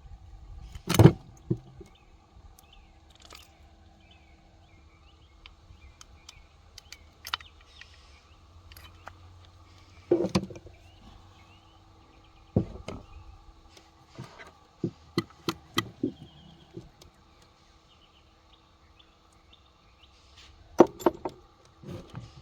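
Scattered sharp clinks and knocks of metal parts and tools being handled: a strong knock about a second in, a quick run of clicks about two-thirds through, and another cluster near the end. Under them runs a steady low hum.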